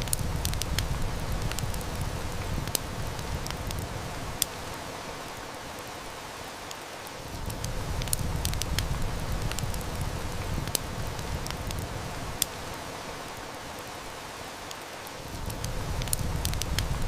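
Steady heavy rain hiss with a wood fire crackling, its sharp snaps scattered irregularly throughout. Under it a low rumble fades out twice and swells back in.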